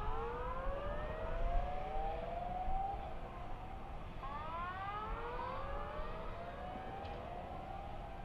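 Sirens wailing: several slow rising tones overlap and start again every few seconds over a low background rumble.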